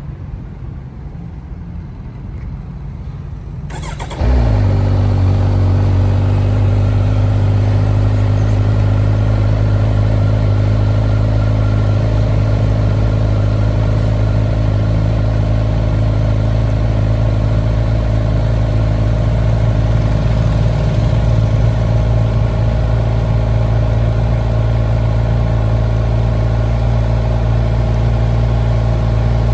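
Kawasaki Z1100's inline-four engine starting about four seconds in, then settling into a steady idle.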